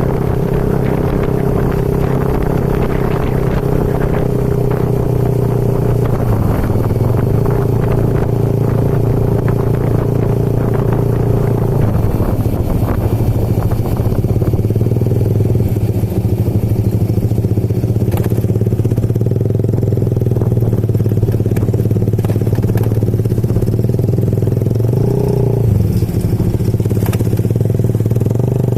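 Motorcycle engine running steadily on the move, its pitch shifting a few times, with scattered clatter.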